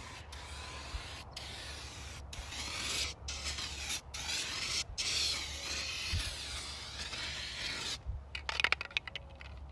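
Rust-Oleum Turbo Can aerosol spray paint hissing in long passes, broken by brief pauses about once a second as the nozzle is released and pressed again. The spraying stops about eight seconds in, followed by a quick run of clicks.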